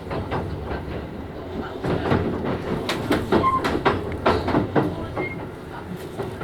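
Keisei 3000 series electric train heard from inside the car, wheels clattering over rail joints and pointwork in a dense run of knocks, with a couple of brief high squeaks from the wheels.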